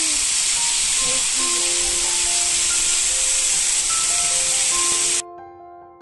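Waterfall water spilling down a mossy rock face, a loud steady rushing hiss that cuts off suddenly about five seconds in. Soft piano music plays underneath and carries on alone after the water sound stops.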